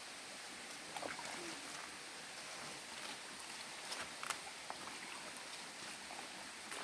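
Footsteps on dry leaf litter along a forest trail: a few scattered crackles and snaps over a steady outdoor hiss.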